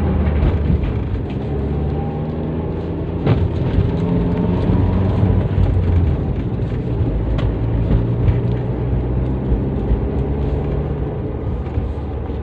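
Toyota Avanza with a custom exhaust driving along, the exhaust drone steady and loud, its pitch rising and falling with the throttle. A single sharp click about three seconds in.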